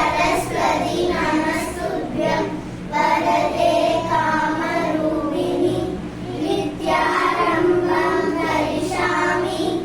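A single voice singing a melody in long, held phrases, with a steady low hum underneath.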